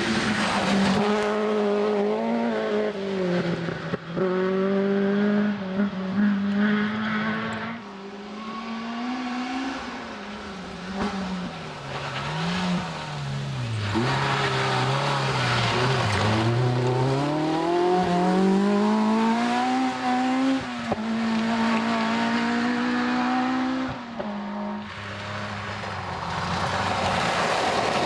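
A rally car's engine revving hard, its pitch climbing and falling again and again through gear changes and corners. The note sinks lowest around the middle of the run before climbing back.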